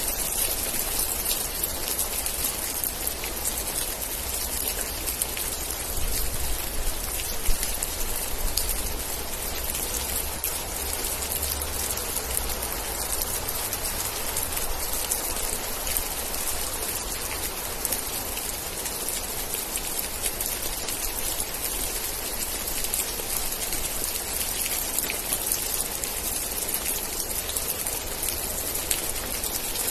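Steady rain falling, with many individual drops pattering on surfaces over a low rumble underneath.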